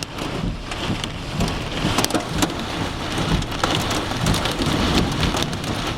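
Hail and heavy rain pelting a car, heard from inside: a steady hiss of rain with many sharp, irregular knocks of hailstones striking the roof and glass.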